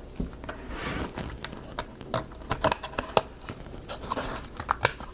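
Small wooden marble-run parts being handled and fitted together, giving irregular light clicks and taps.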